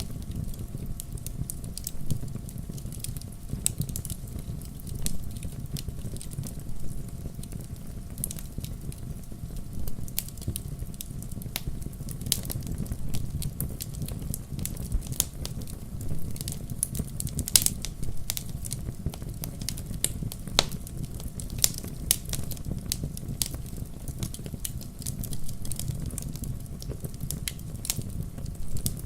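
Wood fire in a fireplace crackling and popping, with irregular sharp snaps of burning logs over a steady low rumble of the flames.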